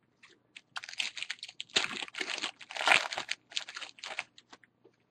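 Crinkling and tearing of a trading-card pack wrapper as it is ripped open and handled, in a string of short, irregular rustles.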